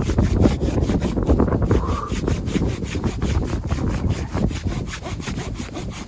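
A hand saw cutting through wood in quick, regular strokes, then tapering off near the end.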